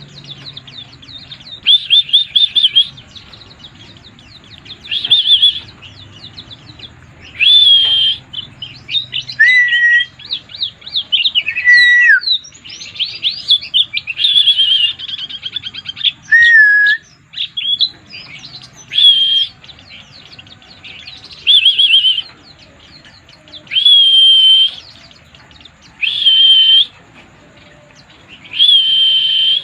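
White-eye (pleci) singing in excited 'mabuk' fashion: short, loud, trilling phrases that repeat every two to three seconds, with a stretch of faster, varied twittering and a few lower whistled notes in the middle.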